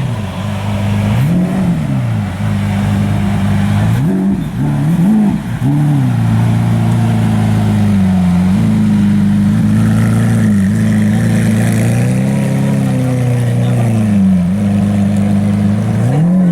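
A car engine idling with several short throttle blips, the revs jumping up and dropping back quickly, a few of them close together early on and again near the end.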